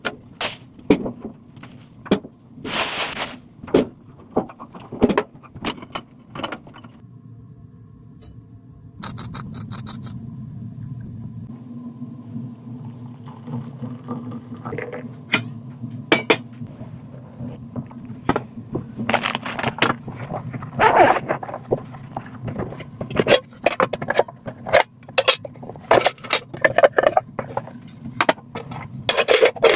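Repeated clinks, knocks and scrapes of hard objects being handled, over a steady low hum that drops out briefly about a quarter of the way in.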